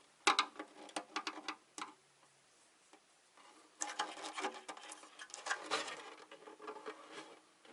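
Small sharp clicks and scrapes of snap-fit plastic parts and contacts in a UPS housing being handled and prodded. There is a quick cluster of clicks in the first two seconds, a pause, then a busier run of clicking and scraping from about four seconds in.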